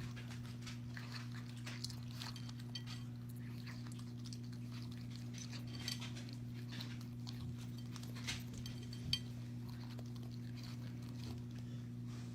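A steady low hum with faint scattered clicks and small taps over it.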